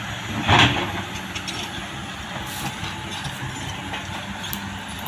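Diesel engine running steadily at work, with a brief louder burst about half a second in.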